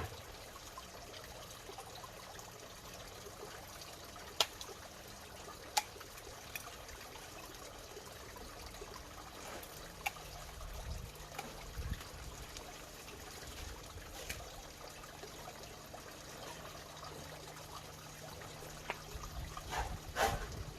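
Water bubbling and trickling steadily, with a few sharp clicks and, from about halfway, a faint low hum.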